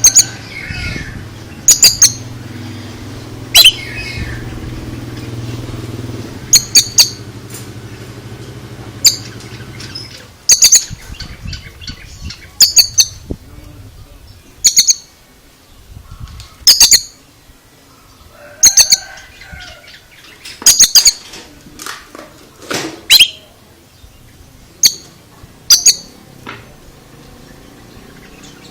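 Oriental magpie-robin (kacer) giving loud, short, sharp high call notes, often two in quick succession, repeated about every two seconds. A low steady hum underneath stops about ten seconds in.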